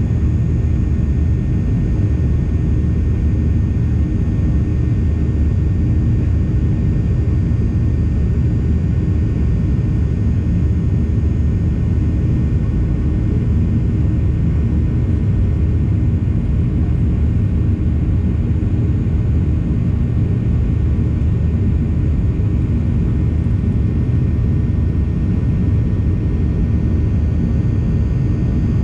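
Steady low drone of a Boeing 737's jet engines and rushing air, heard from inside the passenger cabin in flight, with a few faint steady tones above it.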